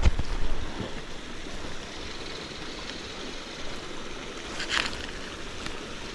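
Steady rush of a trout stream's flowing water, with a heavy bump at the very start and a short burst of noise about four and a half seconds in.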